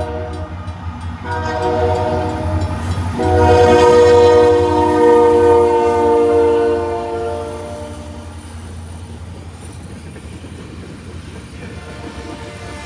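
Locomotive air horn sounding over the low rumble of the train. A short blast comes about a second in, then a longer, louder one from about three seconds to seven and a half. After it the train's rumble carries on alone.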